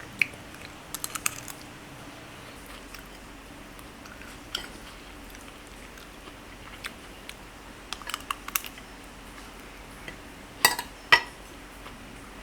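Someone eating a packed lunch: scattered light clicks of utensils against the lunchbox and chewing, with two sharper clinks near the end.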